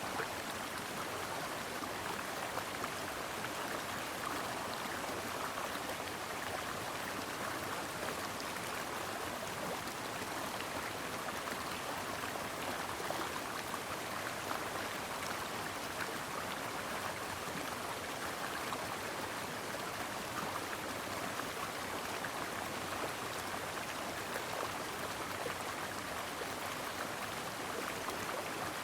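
Brook water flowing steadily, a continuous babbling rush with no breaks.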